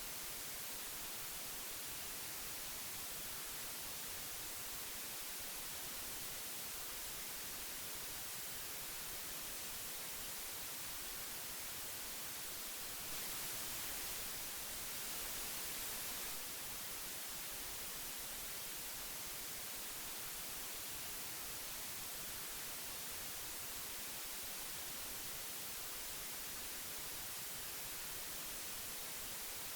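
Steady hiss of old magnetic audio tape, strongest in the high end, with no tones or clicks. It turns a little louder for about three seconds near the middle, then settles back.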